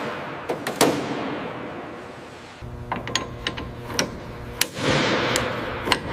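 A series of sharp knocks and clanks with short whooshing swells of noise; a low steady hum comes in a little under halfway through.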